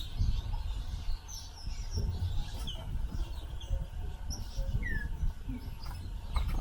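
Several small wild birds chirping with short, scattered calls, including a few down-slurred whistles, over a low rumble.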